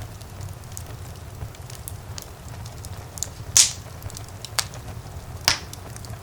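Wood fire in a fireplace crackling over a steady low rumble of the flames, with frequent small ticks and three sharper, louder pops about a second apart in the second half, the first the loudest.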